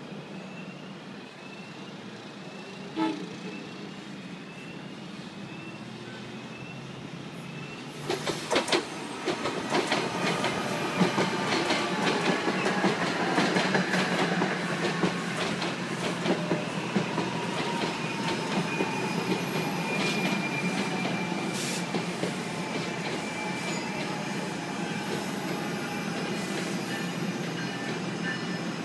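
New Jersey Transit Arrow III electric multiple-unit train approaching and passing close by as it slows to stop. It gets loud about eight seconds in with a quick run of clicks from its wheels over the rail joints, then settles into a steady rumble with a whine and wheel squeal.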